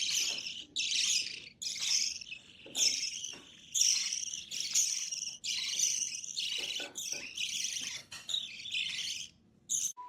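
Parrot calling in a run of harsh, shrill bursts, about one a second.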